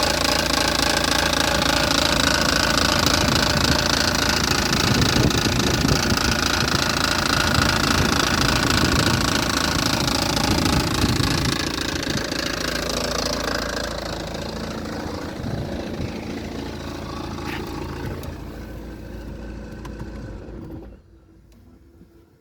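BMW M47N2 2.0-litre four-cylinder common-rail turbodiesel running, with the strange noise that the owner is asking about. It gets steadily quieter over the second half and drops away sharply near the end.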